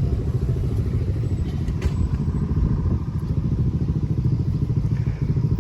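Motorcycle engine running steadily, a low sound with a fast, even pulse.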